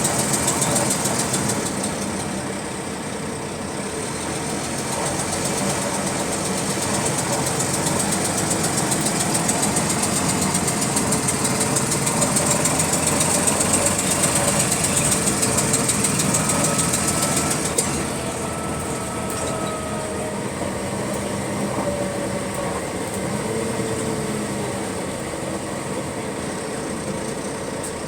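Bus diesel engine running with a rapid, repetitive clicking that follows engine speed, of a cause the owner does not know. It gets somewhat quieter about 18 seconds in.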